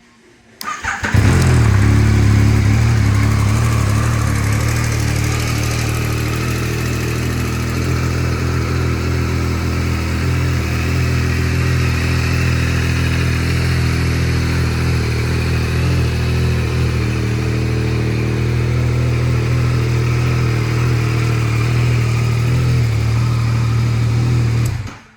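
Yamaha MT-09 SP's CP3 inline three-cylinder engine starting about a second in and settling into a steady idle. It cuts off suddenly near the end.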